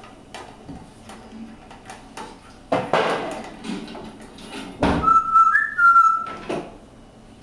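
Yellow-crowned amazon parrot whistling: one clear held note about five seconds in that steps briefly up in pitch and back down, lasting just over a second. Knocks and clatter come before it, the loudest about two seconds earlier and just before the whistle.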